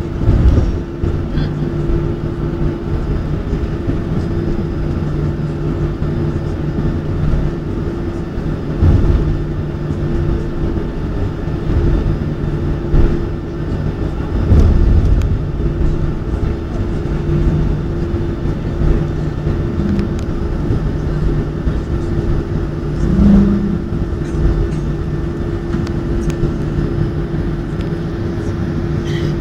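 Jet airliner engines heard from inside the passenger cabin, a steady hum of two low tones over a rumble that swells now and then.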